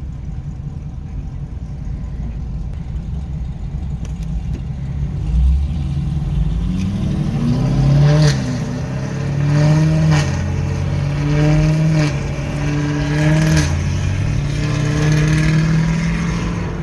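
Chevrolet Camaro with a loud exhaust accelerating, its revs climbing and falling back several times over steady road rumble. The engine comes in about six seconds in, after a stretch of plain road noise.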